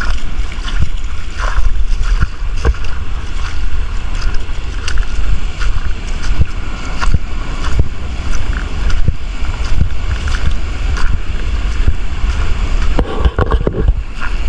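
Strong wind buffeting the microphone in a heavy, uneven low rumble, over the wash of rough surf, with scattered short knocks.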